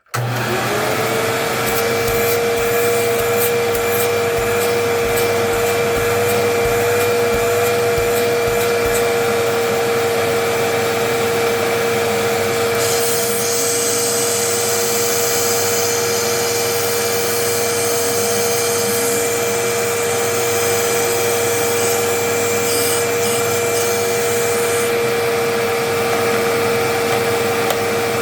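Hoover WindTunnel Twin Chamber bagless upright vacuum switched on for a suction check, its motor whining up to speed and then running steadily. Some knocks and rubbing in the first several seconds, and a higher hiss of rushing air joins for about twelve seconds in the middle.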